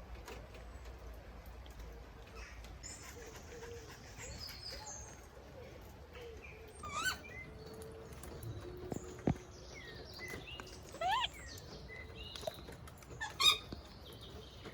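Faint outdoor background with a few short, chirping bird calls spread through, the loudest near the end, and a single sharp click about halfway in.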